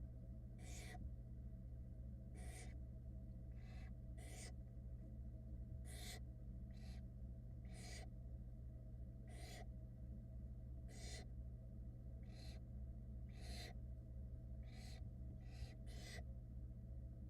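Barn owl nestlings giving short, rasping hisses, their begging calls, repeating about once every second or so. A steady low hum runs underneath.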